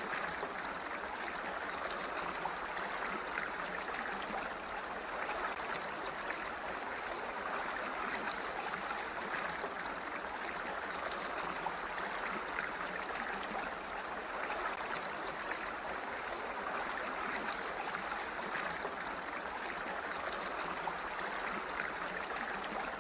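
Water flowing steadily, an even rushing and babbling like a small stream.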